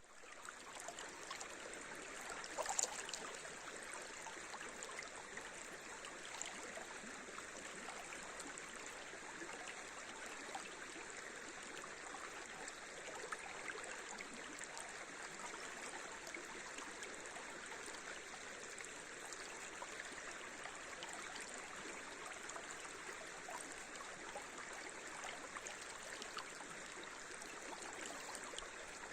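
River water running over shallow riffles, a steady rush of water with no let-up. A brief, louder sound stands out about three seconds in.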